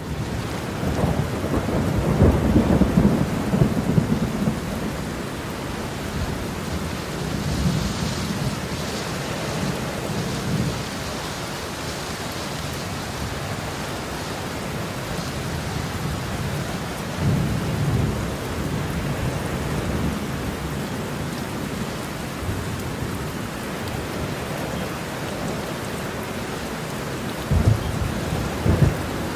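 Heavy rain falling steadily, with rolling thunder. The biggest rumble comes about two to four seconds in, and shorter ones come near the middle and near the end.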